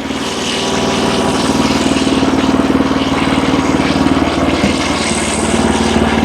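Wood-Mizer LX25 portable sawmill's engine running at a steady pitch.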